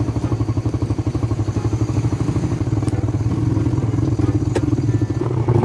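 Motorcycle engine idling steadily, with an even, rapid low pulse.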